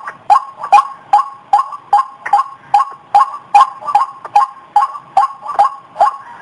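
White-breasted waterhen (ruak-ruak) calling: the same short, harsh call note repeated at an even pace of about two and a half a second. It is a recorded call played as a lure for catching the bird.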